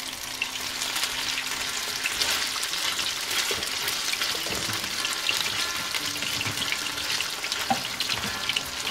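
Patties of minced chicken gizzard kebab mixture sizzling and crackling in a pan of hot oil, with a steady spatter of small pops as more mince is pressed into the oil.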